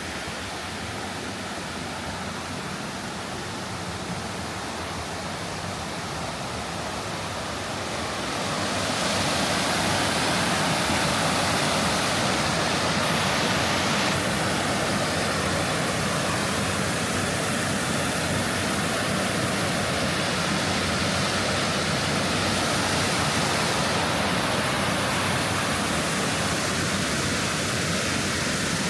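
Stream water rushing steadily over rocks, growing louder about nine seconds in and staying loud.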